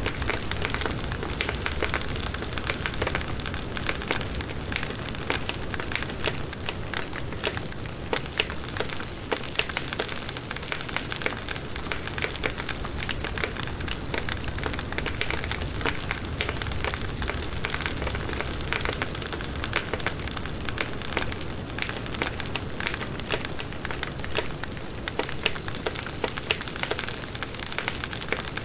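Firewood burning in a campfire, crackling and popping with many small sharp snaps over a steady hiss.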